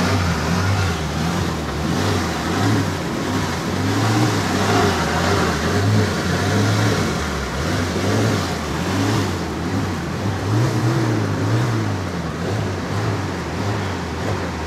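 A vehicle engine running and rising and falling in revs while it wades through deep floodwater, over a steady rush of noise.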